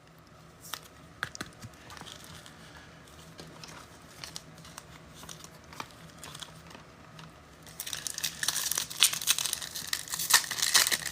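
Faint clicks of cards being handled, then, about eight seconds in, loud crinkling and tearing as the wrapper of a trading-card pack is ripped open.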